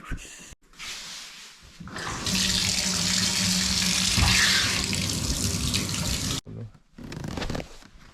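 Water running from a tap into a sink for about four seconds, then shut off suddenly.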